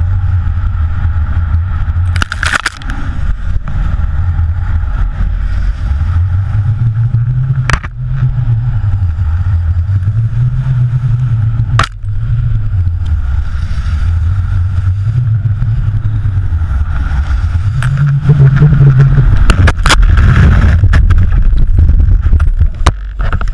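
An engine running steadily, its pitch rising and falling in slow swells, with a few sharp clicks over it.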